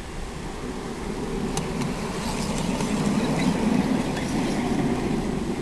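Maxitrak 5-inch gauge Jubilee locomotive hauling a loaded train up a steep gradient: the simulated diesel-shunter engine sound from its sound system, together with its running gear on the rails. It grows louder to about four seconds in, then eases.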